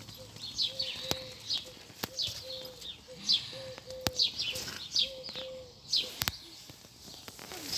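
Small birds chirping: a run of short, high chirps repeating every half second or so, with a few faint clicks among them.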